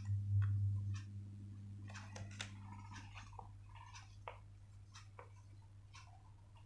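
Paper being handled and folded, with scattered crackles and taps, over a steady low electrical hum that swells for about the first second.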